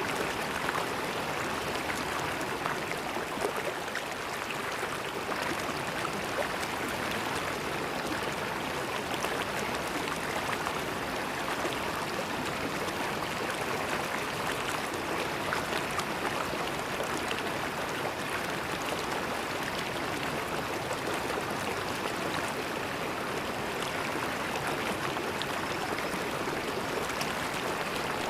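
River water flowing and gurgling over rocks, a steady rush with small splashes and no pauses.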